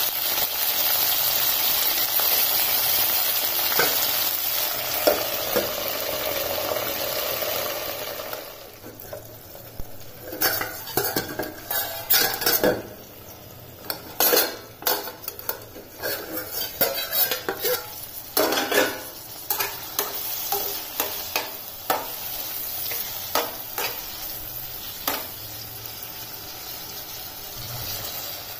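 Green chillies, tomatoes and fenugreek leaves sizzling as they fry in a pan, stirred with a spoon. About eight seconds in the sizzling drops away, leaving irregular clinks and scrapes of a metal spoon against steel cookware.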